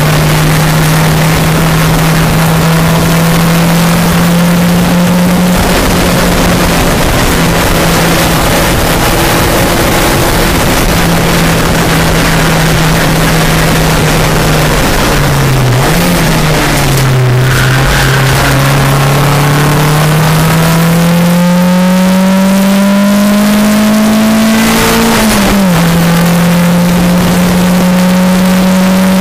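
VW Golf Mk2's four-cylinder engine on individual throttle bodies, heard from inside the cabin running hard at steady revs, with a brief lift a little past halfway. The revs then climb steadily through the gear, drop sharply at an upshift near the end, and start climbing again.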